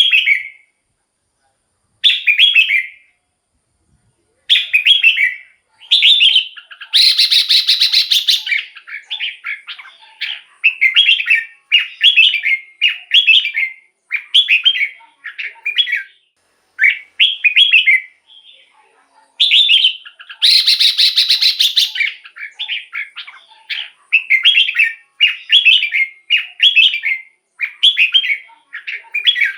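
Red-whiskered bulbul singing: short whistled phrases repeated in quick series, broken twice by a longer, harsher chattering phrase, about seven seconds in and again about twenty seconds in.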